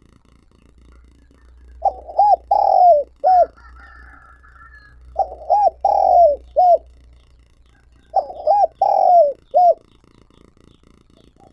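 Spotted dove cooing its calling song: three phrases about three seconds apart, each of four notes, two short, a longer falling one, then a short last note. This is the calling coo of a decoy dove, used to draw wild doves. A fainter higher call sounds between the second and third phrases.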